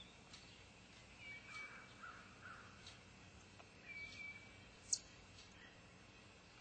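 Faint outdoor ambience with distant birds calling: a short double call repeated about every three seconds and three soft caw-like calls about one and a half seconds in. A single sharp click near five seconds is the loudest sound.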